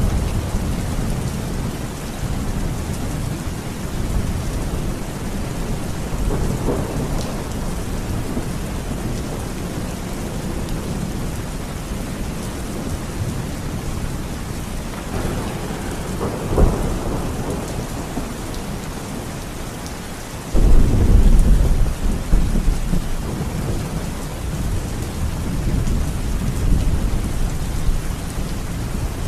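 Thunderstorm: steady rain with rolling thunder, a sharp crack about halfway through, and a loud deep thunder rumble breaking in suddenly about two-thirds of the way in.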